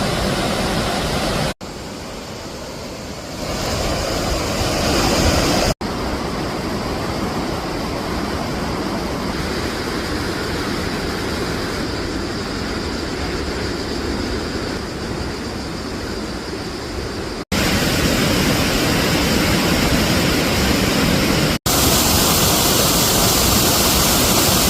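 Krka waterfalls' cascading water rushing as a steady, loud wash of noise. The noise jumps in level and tone at four abrupt cuts between clips.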